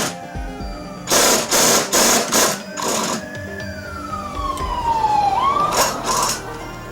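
Air tool on a socket running in short trigger bursts, three quick bursts about a second in. Then a squeal that slides slowly down in pitch for about two seconds and turns sharply up at the end, followed by a couple more short bursts.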